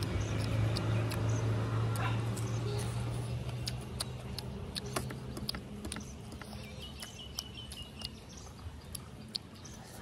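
Close-up eating sounds: chewing and lip-smacking with many small sharp clicks as noodles and egg are eaten by hand. A low steady hum runs underneath and fades away about halfway through.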